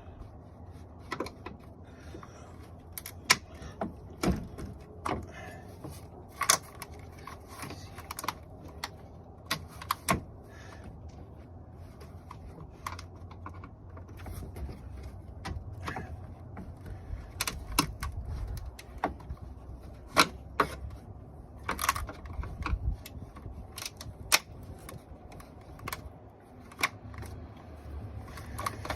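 Scattered, irregular light clicks and knocks of plastic clips and parts being handled while a wiring harness is worked free from a radiator fan assembly.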